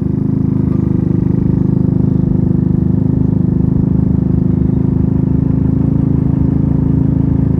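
Small DF50SST motorcycle engine running steadily at cruising speed, heard from the rider's helmet mic, its pitch holding level throughout.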